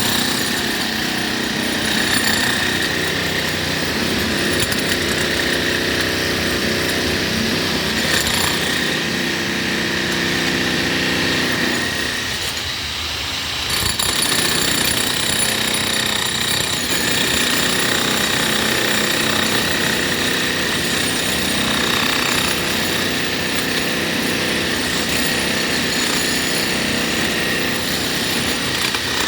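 Jackhammer breaking concrete with rapid, continuous hammering that eases briefly about twelve seconds in and then resumes.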